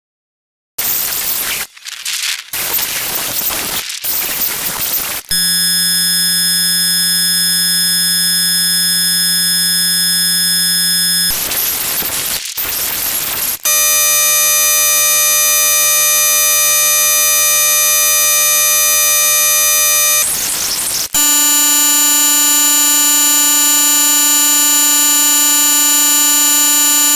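Electronic sound: steady buzzing chords that hold for several seconds each, three times, broken by bursts of hiss.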